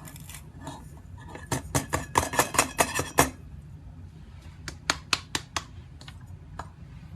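A quick run of about ten sharp clicks and light clatters of small hard objects being handled, then a few more single clicks, over a steady low hum.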